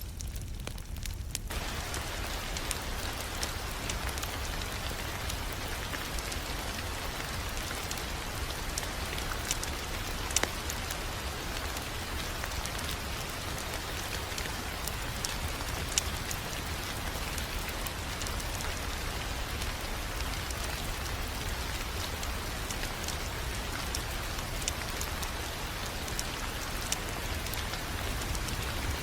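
Wood fire crackling with scattered sharp pops over a steady rain-like hiss and a low rumble; the hiss comes in about a second and a half in.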